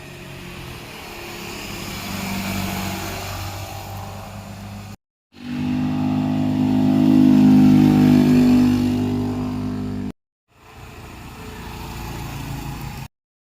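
Motorcycles passing one at a time in three short cuts, each engine note swelling as the bike goes by. The second pass, about halfway through, is the loudest.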